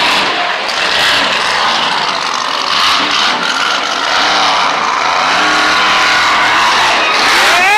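Monster truck engine running loud under throttle, its pitch climbing a little from about halfway through.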